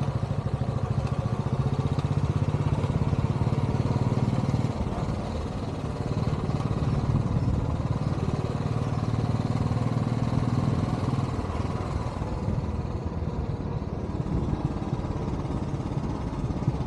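Royal Enfield Bullet motorcycle's single-cylinder engine running with a steady rapid beat under way. It eases off for a moment about five seconds in and then pulls again.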